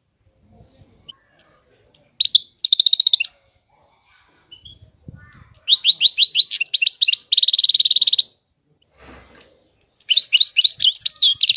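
European goldfinch singing: three bursts of quick, high twittering notes, each ending in a rapid buzzy trill.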